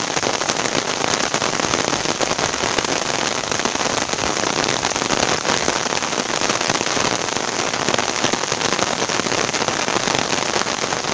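Steady rain falling on the open water of a reservoir: a dense, even hiss of countless small drop impacts on the surface.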